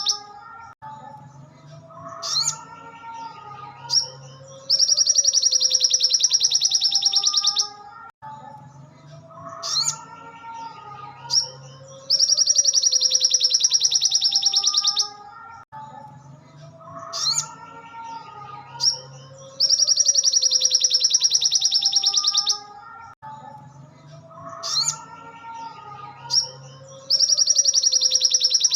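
Crimson sunbird (sogon) song looped for bird training: a loud, very fast, high-pitched trill lasting about three seconds, repeated about every seven and a half seconds, with softer, lower chirps and whistles between the trills.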